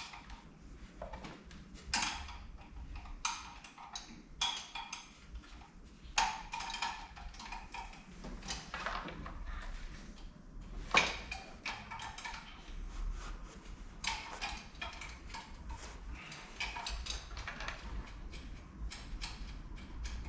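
Irregular clicks and knocks of hand tools working a small bracket loose from a car's engine bay, with one sharper knock about eleven seconds in.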